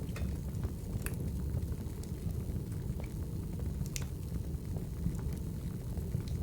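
Wood fire crackling in a fireplace: a steady low rumble of the flames with scattered sharp pops and snaps, the loudest about one and four seconds in.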